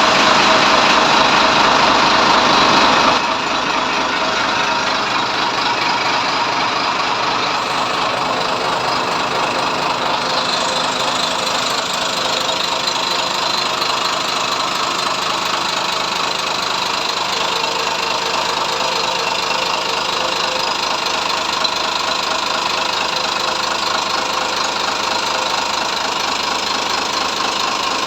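280 hp Sinotruk diesel engine running just after a start: faster and louder for about the first three seconds, then dropping to a steady idle.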